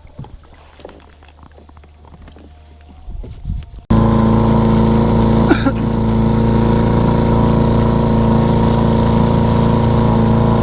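A small boat's engine running loud and steady at constant speed, cutting in suddenly about four seconds in after a few seconds of faint, quiet sounds.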